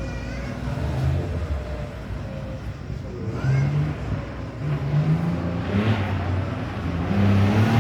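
Rally car engine revving, its note climbing in several rises and highest near the end.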